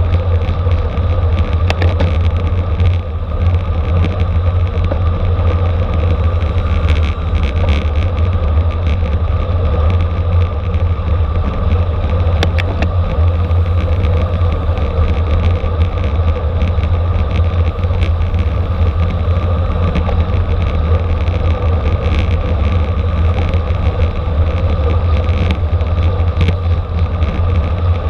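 Steady wind rush and road rumble on a camera riding with a racing bicycle at speed, with a low, even roar and a faint steady hum from the tyres and drivetrain.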